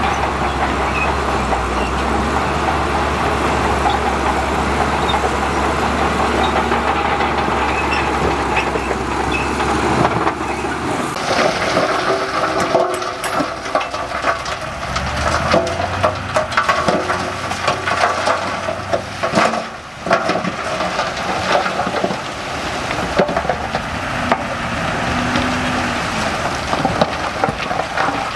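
Heavy diesel earthmoving machinery working, with a steady low engine drone. About eleven seconds in the drone drops and a dense crackling and rattling takes over.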